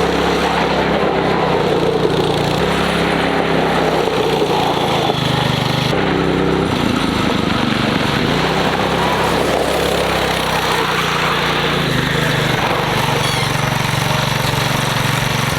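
Small engine of a homemade go-kart running steadily under a rider, its pitch shifting up and down a few times as it speeds up and eases off.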